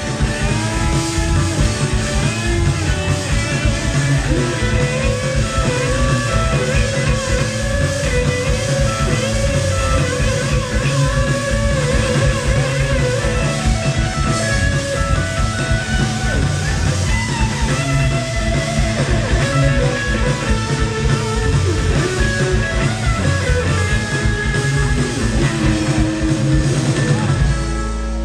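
Live rock band playing with electric guitars and drum kit, steady and loud. Near the end the drumming stops and a low final chord is held.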